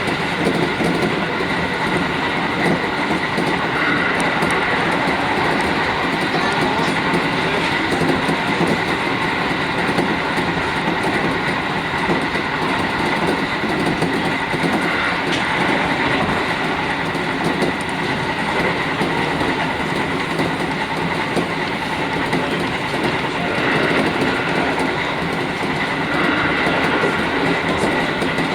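JR Kyushu 415 series 1500-subseries electric train running steadily, heard from inside the leading car, with wheels clacking over the rails.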